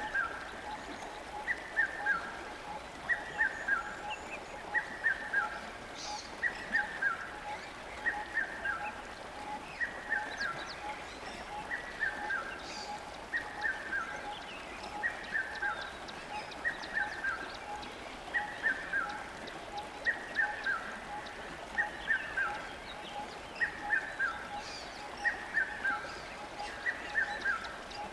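A bird calling over and over: a short call of quick falling notes, repeated about every one and a half seconds, over a faint rapid pulsing call lower down.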